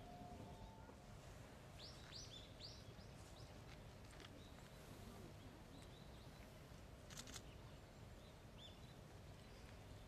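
Faint, short, high bird calls that drop in pitch, over a low steady outdoor rumble: a quick run of about four calls around two seconds in, then a few scattered calls and a short burst of clicks near the middle and end.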